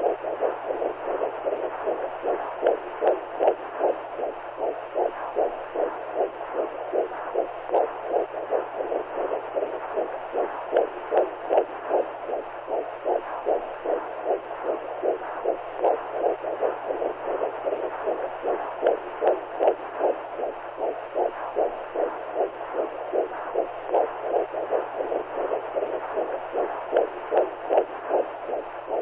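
Womb sound for soothing newborns: a whooshing, heartbeat-like pulse, about two to three beats a second, over a steady rushing hiss and a low hum.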